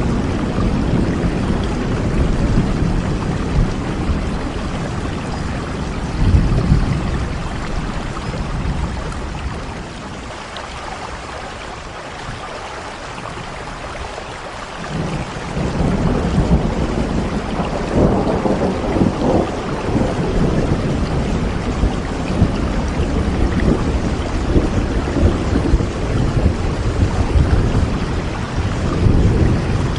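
Steady rainfall with low rolling thunder rumbling under it. The rumble fades about a third of the way in, then swells back and peaks a little past halfway.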